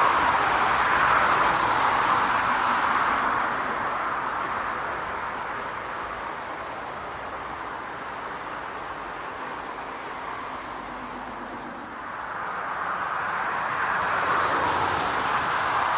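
Jet airliner engine noise. A loud rushing roar fades away over the first several seconds, then another jet's roar builds up again in the last few seconds.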